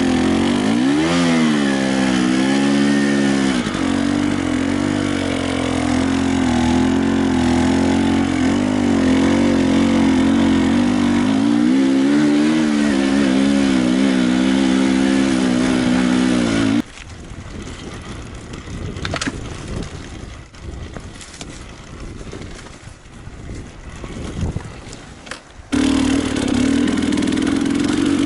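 Enduro motorcycle engine revving up and down, its pitch rising and falling repeatedly. About two-thirds of the way through it cuts off abruptly to quieter clattering and knocks for several seconds, then the engine sound returns just as abruptly.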